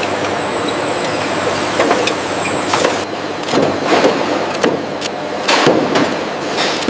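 Coconut shell-removal machinery running with a steady mechanical noise, broken by irregular knocks and clacks in the second half, and a thin high whine that stops about three seconds in.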